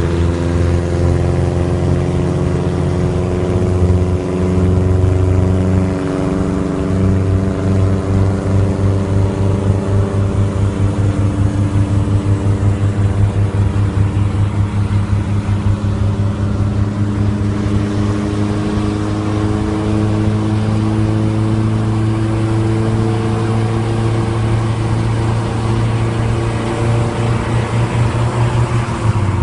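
An engine running steadily with a low, throbbing pulse, its pitch drifting only slightly.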